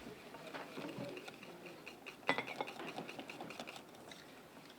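A utensil stirring pudding in a saucepan to melt in butter: irregular light clicks and taps against the pot, with one sharper knock a little past halfway.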